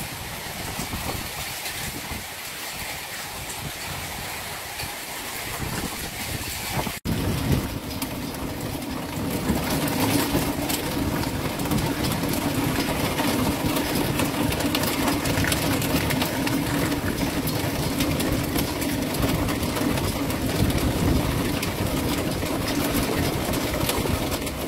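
Heavy downpour: a steady hiss of rain. About seven seconds in the sound drops out for an instant and comes back louder, with a steady low hum under the rain.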